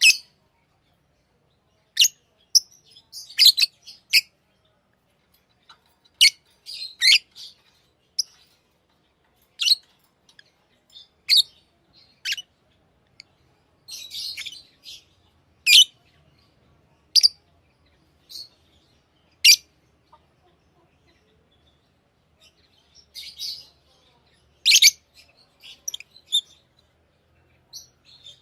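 Pet lovebirds chirping: short, sharp, high calls, some single and some in quick clusters, at uneven intervals with brief silences between.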